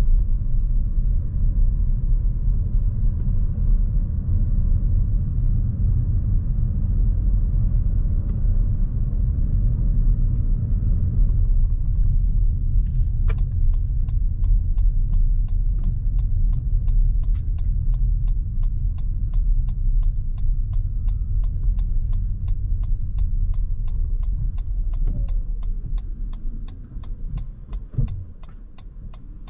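Cabin sound of a Lexus NX350h hybrid SUV on the move: steady low road and tyre rumble. About halfway through, the turn-signal indicator starts ticking at an even rate of a couple of ticks a second. Near the end the rumble fades as the vehicle slows, with a brief falling whine.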